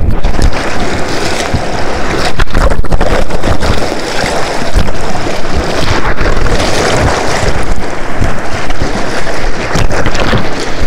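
Poprad river rapids: white water rushing loudly and without pause, with wind buffeting the microphone.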